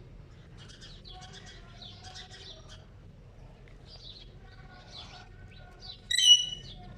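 Ring-necked parrot chattering softly, then giving one loud, shrill call about six seconds in.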